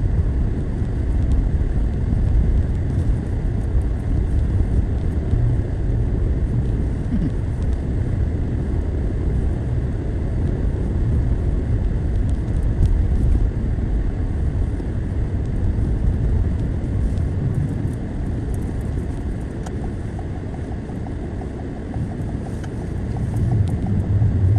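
Car being driven, heard from inside the cabin: a steady low rumble of engine and tyre noise. It eases a little for a few seconds, then builds again near the end.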